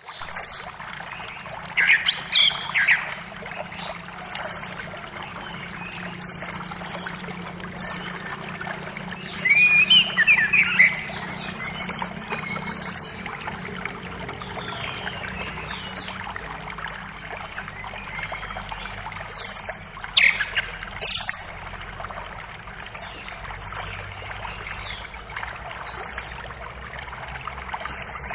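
Forest creek flowing steadily under birdsong. One bird repeats a short, very high call every second or two, and other birds add a few lower chirps.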